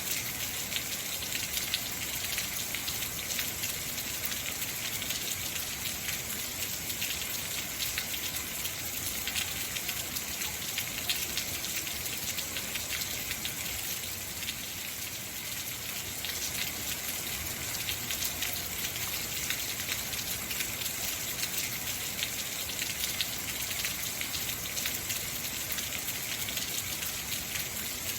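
Heavy rain falling steadily: a dense hiss of countless drops pattering on surfaces.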